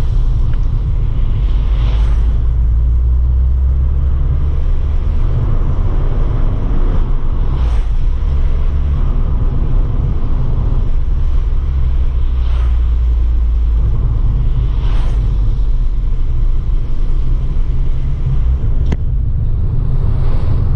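Abarth 595 Pista's 1.4-litre turbocharged four-cylinder engine and exhaust under way, a heavy steady low rumble mixed with road noise. A few brief louder rushes come every few seconds, and there is one sharp click near the end.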